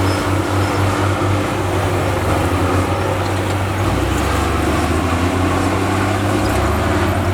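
Heavy diesel earthmoving machinery running steadily, with a low engine note that pulses at first and changes pitch about four seconds in.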